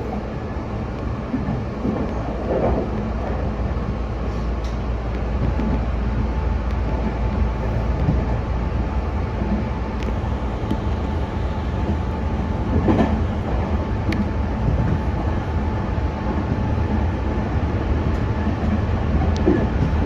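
Meitetsu electric express train running along the line, heard from inside the car: a steady rumble of wheels and running gear, with a few sharp clicks from the rails.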